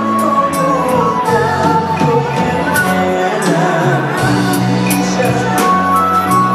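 Live band music from a Vietnamese ballad: sustained chords and a melody line, with regular cymbal strokes.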